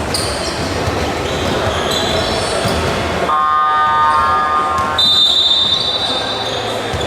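Basketball game in an arena: steady crowd din with the ball bouncing and short high sneaker squeaks on the court. About three seconds in, a steady horn-like tone sounds for under two seconds.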